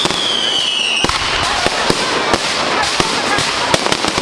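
Fireworks going off in quick succession: many sharp bangs and crackles, with a whistling firework's long, slowly falling whistle that stops about a second in.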